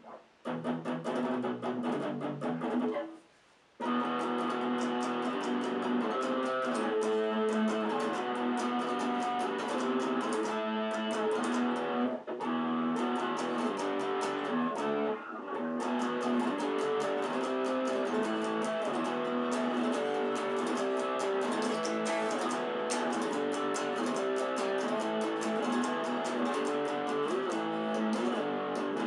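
Cort X-series electric guitar being played, a run of riffs and chords that breaks off briefly about three seconds in and then carries on without a pause.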